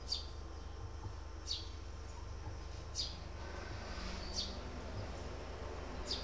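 A bird's short, high chirp repeated about every second and a half, each call dropping in pitch, over a steady low hum.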